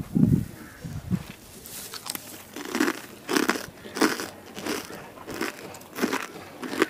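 Crisp sweet crumbs made from fried leftover bread being bitten and chewed close to the microphone, a sharp crunch about every half-second to two-thirds of a second, starting about two seconds in.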